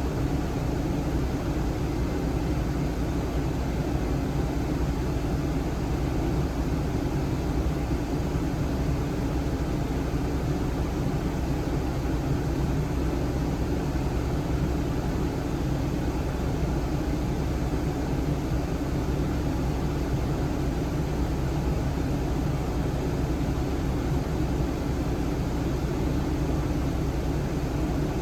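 Suzuki Spacia (MK53S) kei car running during air-conditioning service: a steady, unchanging mechanical drone with a low hum.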